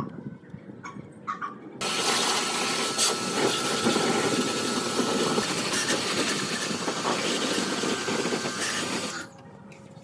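A power tool running with a steady hiss. It switches on about two seconds in and cuts off about seven seconds later.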